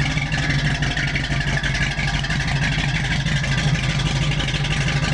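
Rebuilt 1965 Ford Mustang 289 small-block V8, with long-tube headers and a Flowmaster 40 series exhaust, idling steadily on its first start-up after the rebuild.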